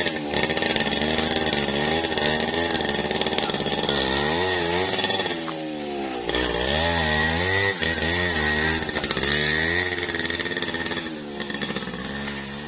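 Motoyama 1000 two-stroke chainsaw cutting through teak wood, its engine pitch repeatedly sagging and climbing again as the chain works through the log, easing off near the end.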